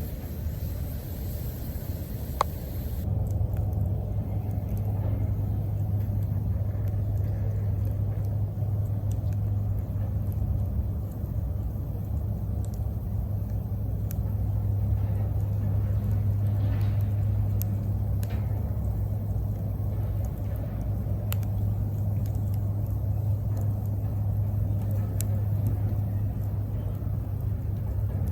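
Wood fire burning in a steel fire-pit grill, with a few faint sharp crackles. A steady low rumble and hum runs underneath and is the loudest sound.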